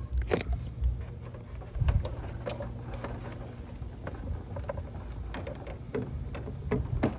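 Wooden beehive frames and hive box being handled: scattered knocks and clicks, a sharp click just after the start and a heavier thump about two seconds in, over a steady low rumble.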